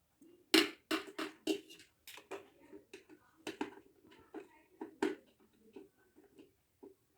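Irregular clicks and knocks of the electric kettle's hard plastic parts being handled and worked on, the loudest a little after half a second in and again around five seconds in.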